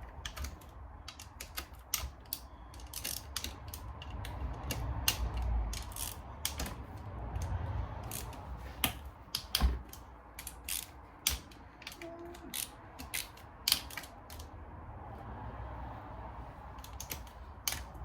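Hand ratchet with an 8mm socket clicking in short runs as the case bolts on a Suzuki LTR 450 engine are loosened and backed out, with sharp irregular clicks and knocks throughout.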